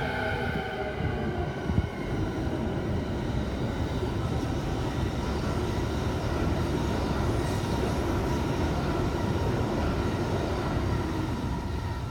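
Electric train running along the tracks: a steady rumble of wheels and motors, with a single short thump about two seconds in.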